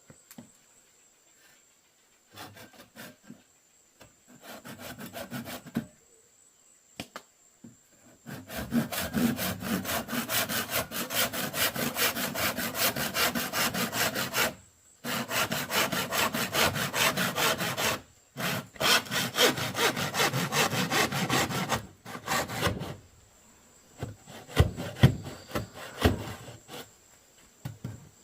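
Hand saw cutting bamboo with quick, even back-and-forth strokes. There are a few short starts, then three long runs of sawing with brief pauses between them, and a few scattered knocks near the end.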